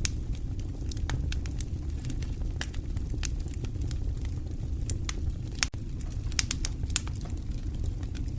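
Fireplace fire crackling: a steady low rumble of flame with irregular sharp pops and snaps scattered throughout.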